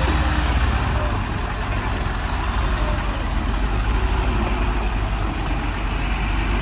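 Heavy vehicle's engine running steadily with a deep low rumble.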